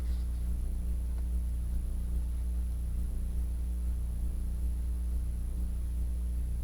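Steady low electrical hum, like mains hum, with overtones and a thin high-pitched whine above it, unchanging throughout.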